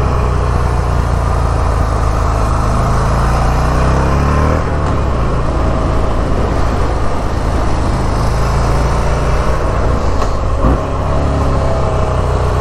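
Buell XB12S Lightning's air-cooled V-twin engine pulling under throttle in low gear, rising in pitch for a few seconds, easing off about four and a half seconds in, then building again near the end.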